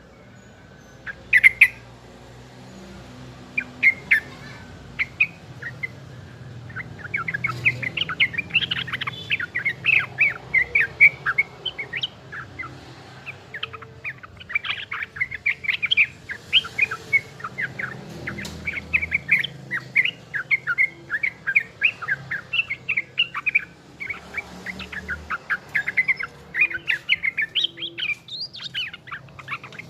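A young yellow-vented bulbul (trucukan) chirping busily in quick, chattering runs. The calls are scattered over the first few seconds and become near-continuous from about seven seconds in.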